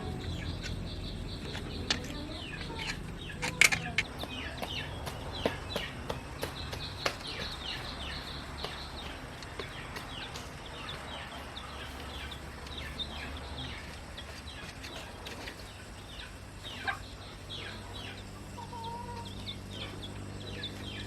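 Chickens calling, many short falling chirps in quick succession, over a low steady hum, with a few sharp taps, the loudest about three and a half seconds in.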